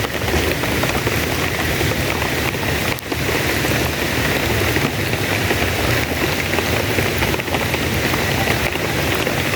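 Heavy rain falling steadily: a dense, even hiss of drops hitting the ground and surfaces.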